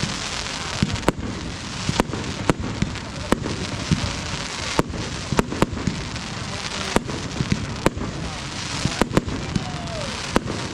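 Fireworks display: sharp bangs of bursting shells at irregular intervals, roughly one a second, over a continuous crackling hiss.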